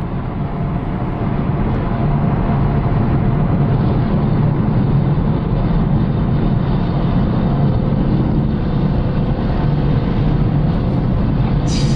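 Car engine and road noise at highway speed, heard from inside the cabin: a steady drone that grows a little louder about two seconds in.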